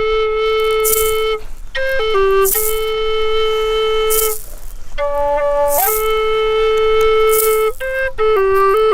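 A flute plays slow, long held notes, mostly on one low note, with short steps up and down between phrases. Brief hissy shakes or breaths sound now and then.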